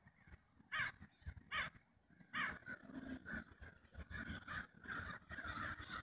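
Birds calling: three loud, harsh calls about three-quarters of a second apart in the first two and a half seconds, then a run of softer calls.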